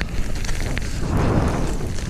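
Wind rushing and buffeting over a GoPro's microphone while skiing downhill, a loud low rumble, with the skis hissing and scraping over the snow.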